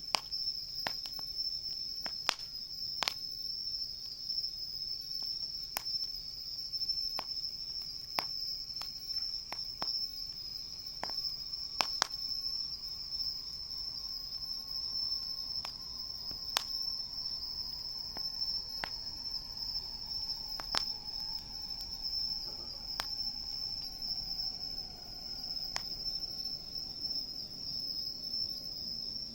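Night insects trilling in a steady, high, unbroken chorus, with a campfire's burning wood giving sharp crackles and pops at irregular moments.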